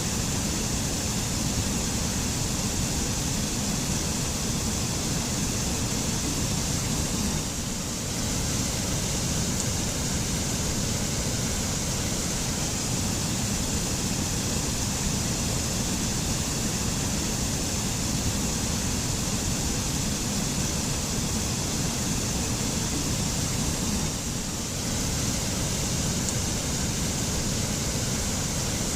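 Mountain waterfall in a forest: steady rushing and splashing water, with a brief slight dip in level twice.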